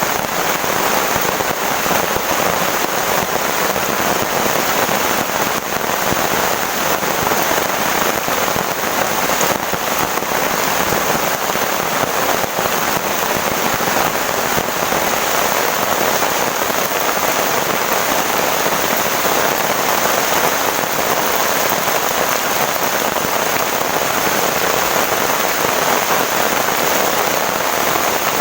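Heavy rain falling steadily in a dense, unbroken patter.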